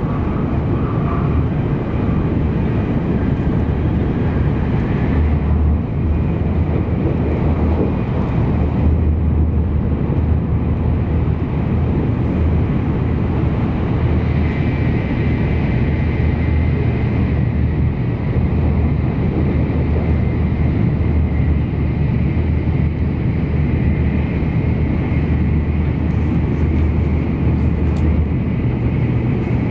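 Steady low rumble and rushing noise of an N700 series Shinkansen running at high speed, heard from inside the passenger cabin. The hiss turns slightly brighter for a few seconds around the middle, as the train speeds straight through a station.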